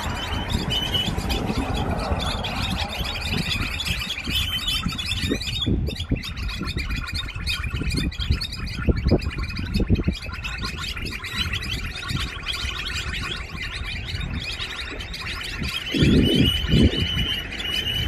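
A flock of small birds chirping and twittering continuously, many short overlapping calls, over a low uneven rumble. A louder low burst comes near the end.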